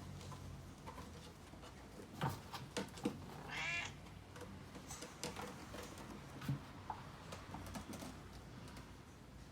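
A cat meowing once, a short call about three and a half seconds in, with scattered sharp clicks and knocks around it and a faint steady low hum.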